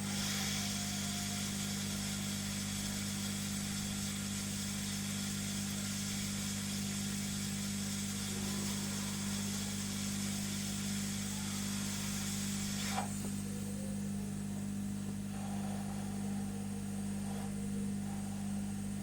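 Hot air rework gun blowing a steady rushing hiss over the board, reheating the newly placed Wi-Fi chip to reflow its solder, then switched off suddenly about thirteen seconds in. A steady low hum runs underneath.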